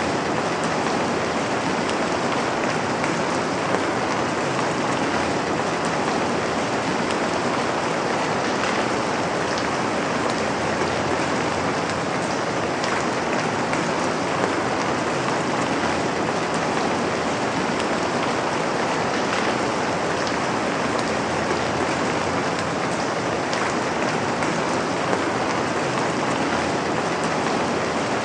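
Steady rain falling, an even dense hiss with faint patter of drops.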